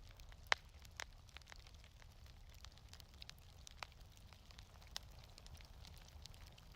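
Wood fire in a fireplace crackling, with scattered sharp pops (the strongest about half a second in) over a steady low rumble.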